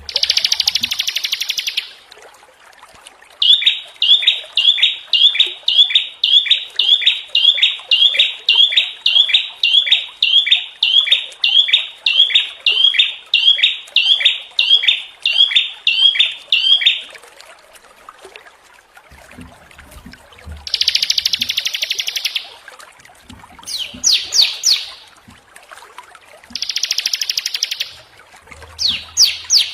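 Small songbirds singing in a masteran training recording, mixing harsh, buzzy rattling bursts ('tembakan kasar') with a long run of repeated sweeping whistled notes, about two a second. The run stops about halfway through, and more harsh rattles and quick trills follow.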